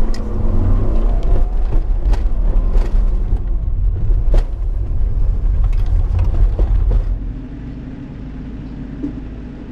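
A car engine worked hard on an autocross run, its note shifting with scattered sharp knocks over a heavy low rumble. About seven and a half seconds in, it drops to a much quieter, steady engine note.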